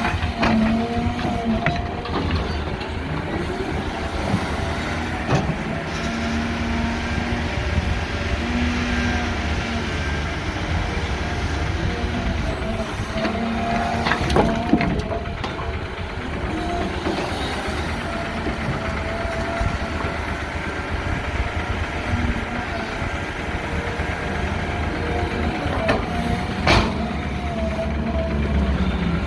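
Six-cylinder diesel hydraulic excavator running steadily under load while digging rock, with a wavering hydraulic whine. Two sharp knocks, about halfway through and near the end, are the bucket striking rock.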